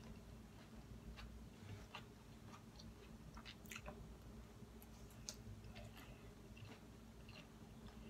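Faint chewing of leafy baby spinach salad, with scattered soft clicks.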